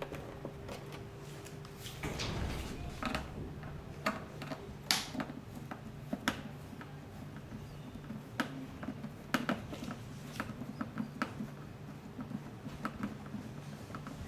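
Scattered small clicks and taps of hard parts being handled as a cryo6s device is taken apart, over a low steady hum, with a longer rustle about two seconds in.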